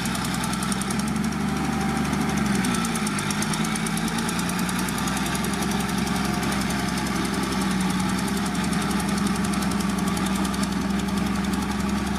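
Large diesel engine of earthmoving machinery running with a steady clatter. Its pitch shifts and dips about two seconds in, then settles.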